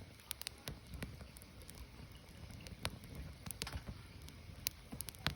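Firewood burning and crackling: irregular sharp pops and snaps over a low rumble of the flames.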